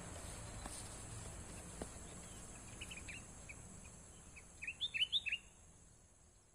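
Three-month-old songbird (a 'jabrik') giving scattered short chirps that quicken into a rapid run of sharp, down-slurred notes about five seconds in, over a steady high hiss.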